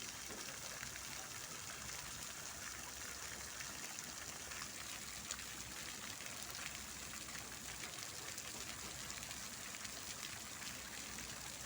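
Fountain water splashing and falling steadily, a continuous even rush of water.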